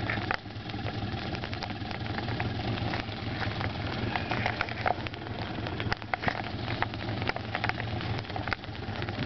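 An engine idling steadily with a low, even hum, and many light, irregular ticks and taps over it.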